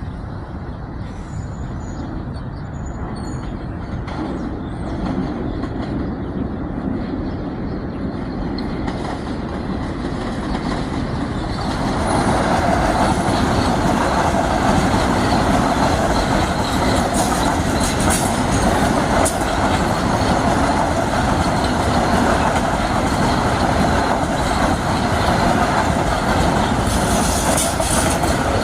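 Metro-North commuter train approaching and passing, growing louder and running at a steady loud level from about twelve seconds in, with wheel clicks over the rails in the second half.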